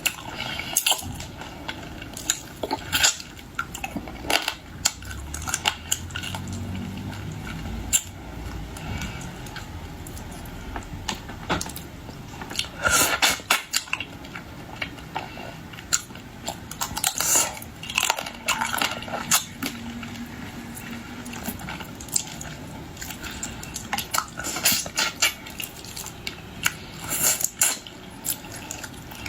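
Close-miked eating of raw marinated mud crab: irregular sharp clicks and cracks of crab shell and utensils knocking against a dish, with chewing between them.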